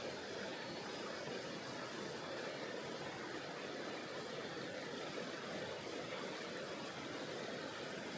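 Mountain river water flowing in a steady, even rush.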